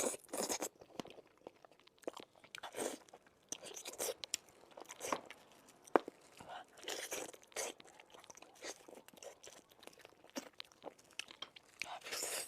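Close-miked eating sounds: a person biting and chewing tender meat off sweet and spicy pork bones, with irregular wet smacks and clicks and a sharp click about six seconds in.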